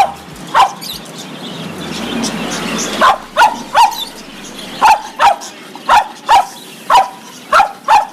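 Dog barking in short, sharp barks: two near the start, then after a pause of about two seconds a run of about ten barks, roughly two a second.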